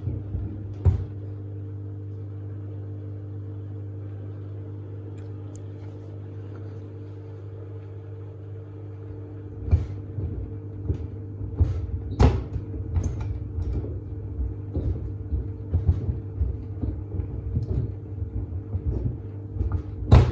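Samsung WD70T4047CE front-loading washing machine running its wash cycle with two pairs of sneakers in the drum: a steady motor hum, and from about halfway in, irregular thuds as the shoes tumble and knock against the drum.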